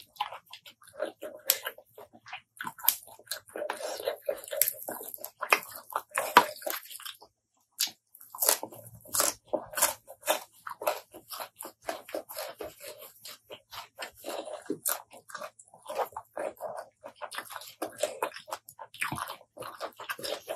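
Close-miked eating: a person bites and chews fresh raw greens and spicy apple snail salad. It is heard as a dense run of short, irregular mouth clicks and crunches with brief pauses.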